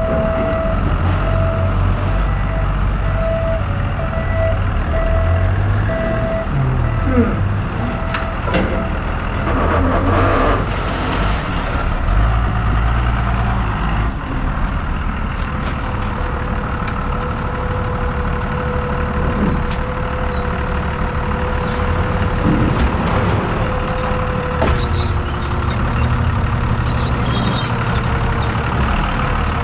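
Forklift engine running and changing speed as it manoeuvres, its reversing beeper pulsing for the first eight seconds or so. Later a steady whine holds for about ten seconds, with a few knocks along the way.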